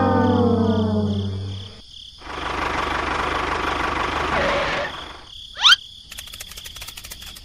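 A string of edited-in sound effects: a brass-like tone sliding down in pitch fades out, then an engine-like rumble lasts about two and a half seconds. A quick rising whistle follows, and then rapid, steady cricket chirping.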